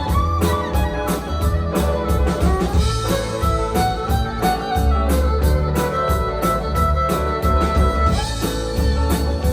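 Country rock band playing an instrumental break between sung verses. Drums keep a steady beat under electric guitar, organ and bass.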